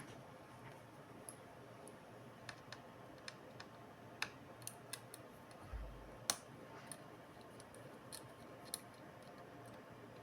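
Faint, irregular small clicks and taps, about a dozen, scattered with uneven gaps; the loudest comes about six seconds in. They are the sounds of small parts and tools being handled while a laptop is taken apart.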